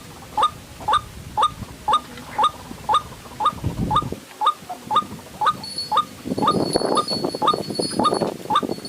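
White-breasted waterhen calling: a steady run of short, rising notes, about two or three a second. From about six seconds in, a rustling noise and a faint high steady whine join the calls.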